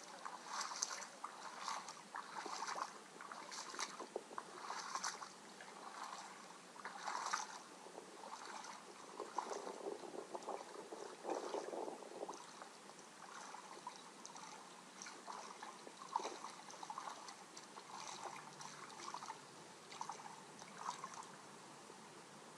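Shallow water lapping and splashing in small irregular surges, stronger in the first half and fainter later.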